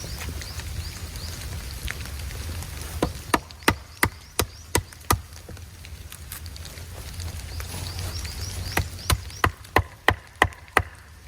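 Wood being struck in two quick runs of sharp knocks, about seven blows each at roughly three a second, as in chopping or hammering with a hatchet, over a steady low rumble.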